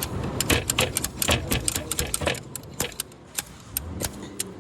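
Metal clinking and rattling as a fuel injector puller tool is worked on a fuel injector: a quick, irregular run of sharp clicks that thins out about halfway through.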